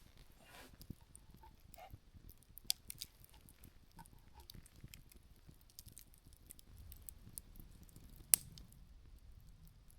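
Open wood fire burned down to embers, crackling faintly with scattered small ticks and one sharp pop a little past eight seconds in.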